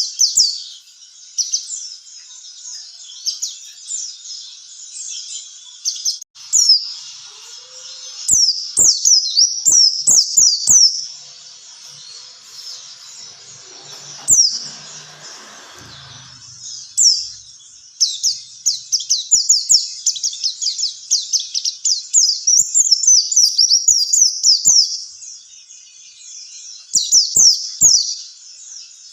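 Pleci (white-eye, Zosterops) singing: fast runs of thin, high chirps in bursts of a few seconds, separated by short pauses.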